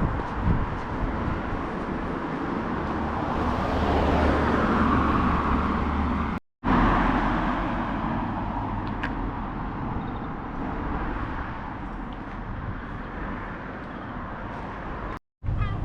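Street ambience with road traffic: a steady wash of passing vehicles that swells as one goes by about four to six seconds in. It drops out abruptly for a moment twice, at edits.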